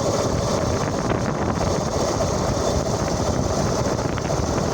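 Steady wind rush over the microphone, with road noise, from a homemade alternator-driven electric motorbike riding at speed close to full throttle.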